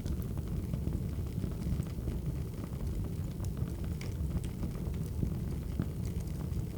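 Crackling wood fire: a steady low rumble of burning logs with small scattered pops and snaps.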